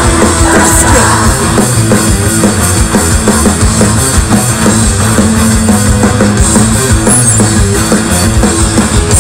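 Loud rock band playing an instrumental passage of a punk-rock song, the drum kit beating steadily under sustained bass and guitar, with no singing.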